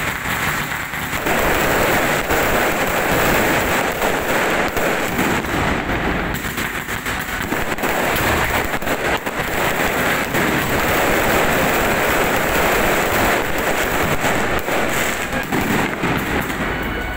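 Fireworks going off in a dense, continuous crackle of rapid small bangs.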